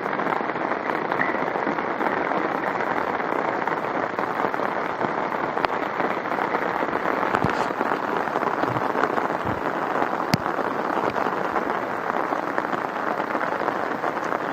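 Heavy rain falling steadily in a downpour, with a few sharp ticks here and there.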